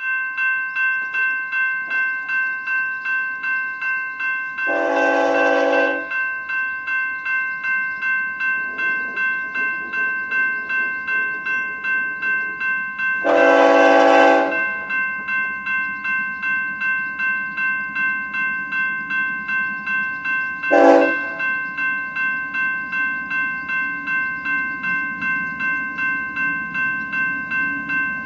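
Railroad grade-crossing bell ringing steadily while an approaching locomotive's air horn blows two long blasts and a short one, the standard crossing warning, with the train's rumble growing near the end.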